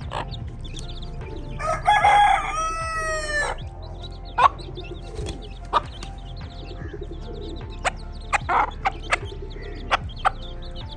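A rooster crows once, about two seconds in, a drawn-out call that drops in pitch at its end. Chickens give short clucks and calls on and off after it.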